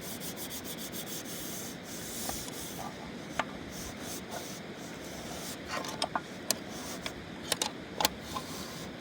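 Repeated scraping or rubbing strokes over the first couple of seconds, then a scatter of sharp clicks and light knocks, several in quick succession about two-thirds of the way through.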